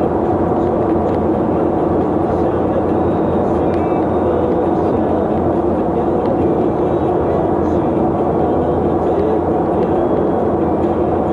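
Steady drone of a moving vehicle on the road: engine, tyre and wind noise holding at an even level throughout.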